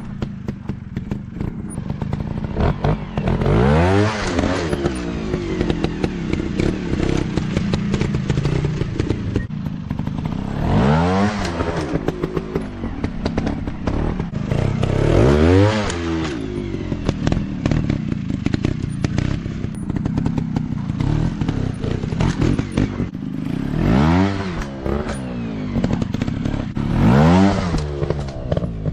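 Dirt bike engines running, with about five sharp throttle bursts where the pitch climbs and falls again, over a steady lower engine drone. Small clattering knocks run throughout.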